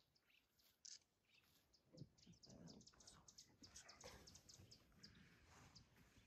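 Near silence broken by faint, quick, high bird chirps, thickest in the middle, with a few soft low rustles about two to four seconds in.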